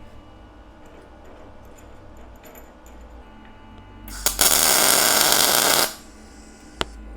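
MIG welder laying a tack weld on steel plate: a loud, even burst of arc noise about four seconds in, lasting about a second and a half. Before it come light metal clinks from handling, and one sharp click follows shortly after.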